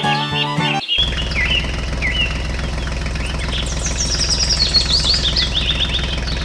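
Background violin music for about the first second, then many birds chirping over a steady low hum.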